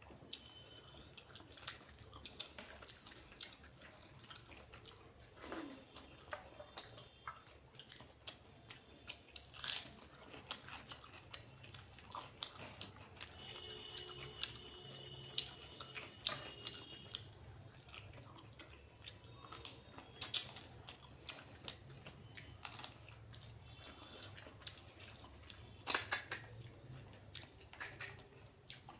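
Close-miked chewing and wet mouth sounds of a person eating mutton curry with rice, with irregular smacks and clicks.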